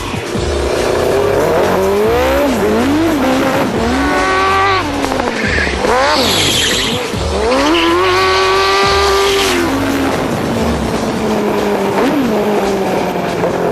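Go-kart's Suzuki GSX-R1100 inline-four motorcycle engine, revving up and dropping back again and again as it is driven hard, with tyres squealing at times.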